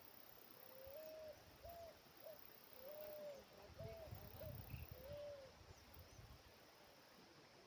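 A bird calling faintly: a run of about seven short, low hoots, some longer and some clipped, over about five seconds, then stopping.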